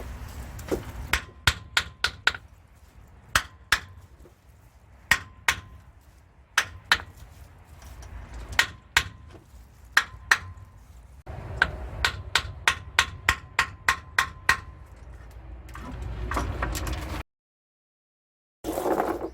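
Hammer blows on metal: sharp strikes in irregular groups, several ringing briefly, with a quicker run of about a dozen strikes a little past halfway. The sound cuts out for about a second near the end.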